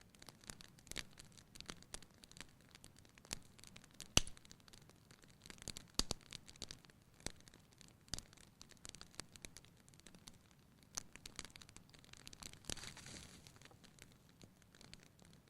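Wood fire crackling in a fireplace: irregular snaps and pops, the sharpest about four seconds in, with a brief soft hiss of flame late on.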